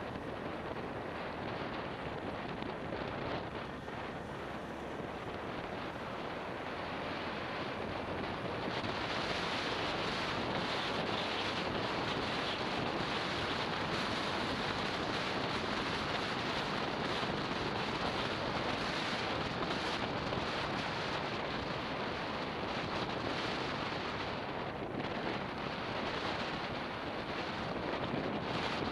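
Wind rushing over the microphone of a camera on a moving motorbike: a steady hiss of wind noise that gets louder and brighter about nine seconds in.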